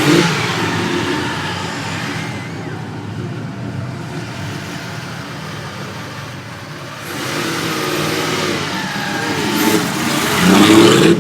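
Sports car engine revving, loudest right at the start, dropping back, then building up again to its loudest near the end.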